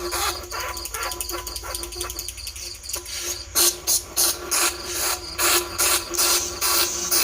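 Bandicoot rat squeaking calls of the kind played to lure rats into traps: rapid, dense chittering at first, then from about halfway through, sharp, loud high squeals about twice a second.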